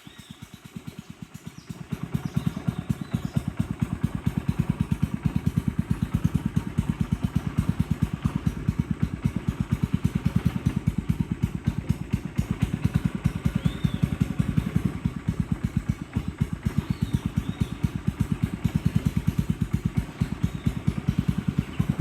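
Boat engine running with a steady, fast thudding beat that gets louder about two seconds in.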